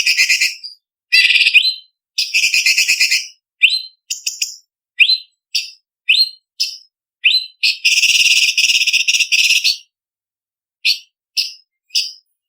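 Orange-bellied leafbird (cucak cungkok) singing: short, sharp, rising whistled notes alternate with rapid trilled chattering phrases. The longest trill comes about eight seconds in and lasts about two seconds, then only single whistles follow.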